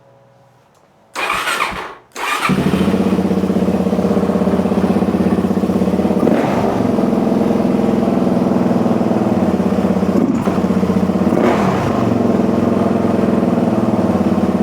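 Suzuki DR-Z single-cylinder motorcycle engine cranked briefly, catching about two seconds in and settling into a steady idle. It is blipped twice, around six and eleven seconds in, and the revs are slow to fall back: a slight hang at idle, a sign that the freshly adjusted carburettor is not yet fully tuned.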